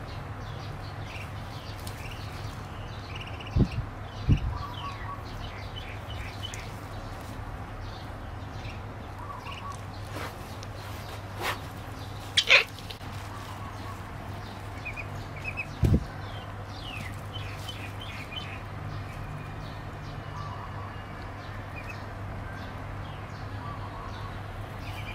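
Short, high chirps of small birds now and then over a steady low hum. A few knocks and thumps break in, the loudest a sharp knock about halfway through.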